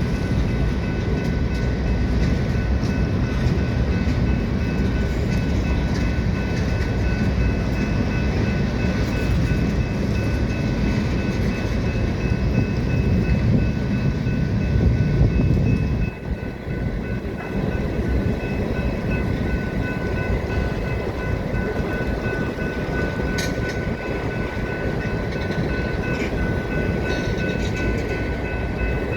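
Manifest freight train rolling past on the track: a steady rumble with a few thin, steady high-pitched tones over it, dipping briefly a little past halfway.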